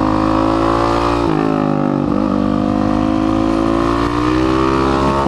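Suzuki DRZ462 single-cylinder four-stroke supermoto engine running under way through its aftermarket MRD exhaust. The engine note dips twice, about a second and two seconds in, then climbs slowly, and falls away right at the end.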